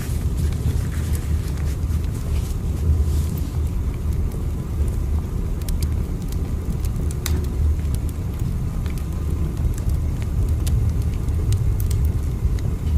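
Steady low rumble of a moving train, with faint scattered ticks above it.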